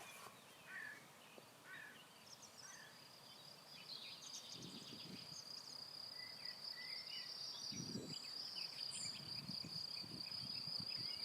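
Faint meadow ambience: insects singing in a steady high trill that sets in a couple of seconds in, with scattered short bird calls over it. A couple of soft low rumbles come through around the middle.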